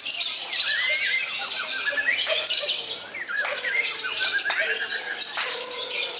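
Many lovebirds calling at once: a dense, shrill chatter of quick chirps, squawks and sweeping calls with no pause.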